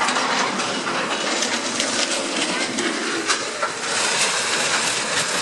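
Continuous clattering and crunching of demolition rubble, with many sharp knocks throughout.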